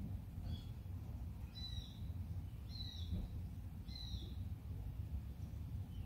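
A bird giving four short, high calls, each falling slightly in pitch, about a second apart, over a steady low background rumble.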